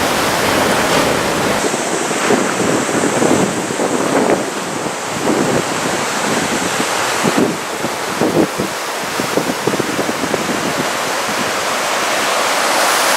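Heavy surf from a typhoon swell breaking and washing ashore, a steady loud rush of water, with wind buffeting the microphone in irregular gusts through the middle.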